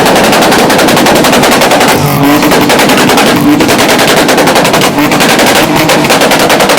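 A revving car's exhaust popping and crackling in a long, rapid string of loud bangs, like machine-gun fire, with brief rises of engine pitch between the bursts.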